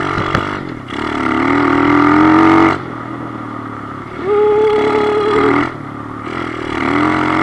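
A Kawasaki KLX110's small single-cylinder four-stroke engine revving in three throttle surges under riding. The pitch climbs, or holds high, then falls suddenly back to a lower running note each time. There is a sharp click near the start.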